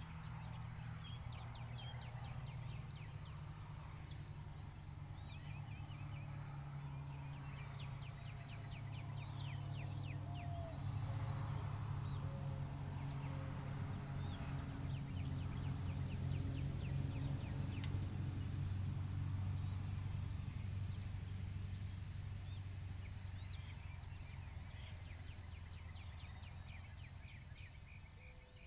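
Small songbirds chirping and trilling over a low, steady rumble that swells louder through the middle.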